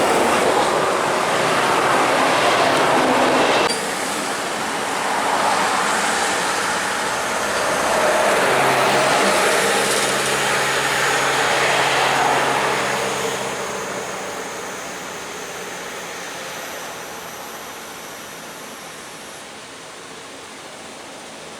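Scania-engined coach bus running: a low engine hum under heavy road and tyre noise. The level drops suddenly a few seconds in, and the sound fades away over the second half.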